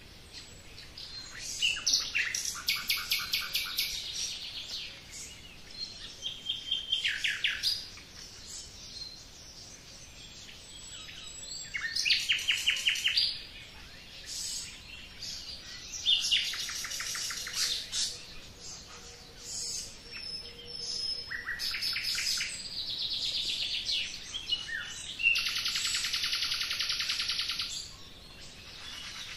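Songbirds singing: rapid trilled phrases, each a second or two long, repeat every few seconds, with other chirps in between.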